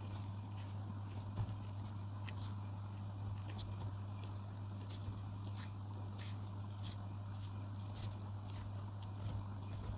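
Coloring tool scratching and tapping on paper in short, irregular strokes, one or two a second, over a steady low hum.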